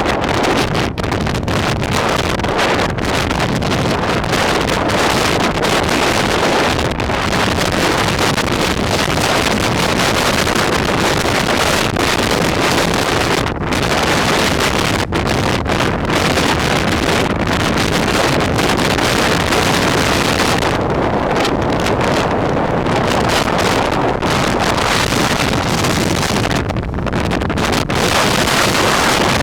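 Heavy wind buffeting the microphone as a loud, steady rush, from riding an electric scooter into a headwind.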